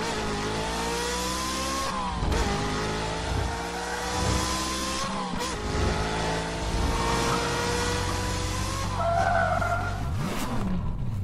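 Sports car engine accelerating through the gears: its pitch climbs steadily and drops back at each gear change, about two, five and nine seconds in, over a steady rushing hiss.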